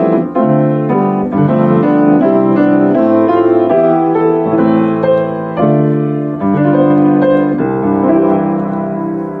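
Keyboard music, a piano-type instrument playing a slow succession of sustained chords, growing quieter near the end.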